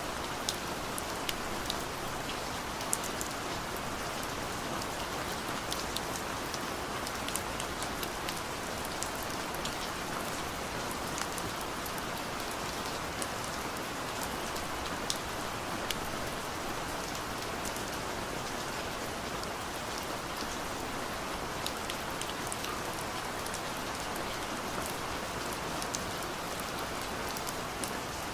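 Steady rain on a car's roof and windows, heard from inside the car: an even patter with many scattered sharp drop taps.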